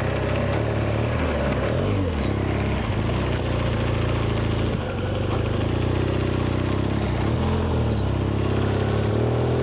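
BMW R1200GS boxer-twin engine running at low revs, its pitch dipping and rising slightly now and then as the throttle is worked.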